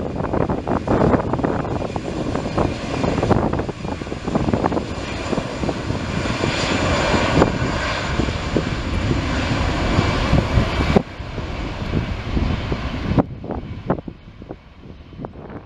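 Airbus A319's two CFM56-5B turbofan engines at takeoff thrust, a loud, steady rushing jet noise with wind gusting on the microphone. The level drops sharply about eleven seconds in and again a couple of seconds later.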